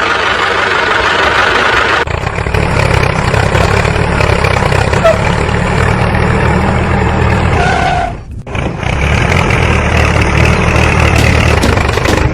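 Tractor engine running steadily with a low rumble. It drops out briefly about two-thirds of the way through, then runs on.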